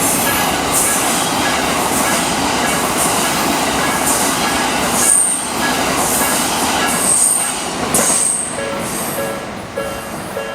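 An electric commuter train runs through a level crossing, its wheels on the rails making a loud rolling noise, with brief high-pitched wheel squeals a few times. The crossing's warning bell rings at a slow tempo, the Nikko Line type, under the train noise. It comes through clearly again near the end as the train passes, at about one and a half to two dings a second.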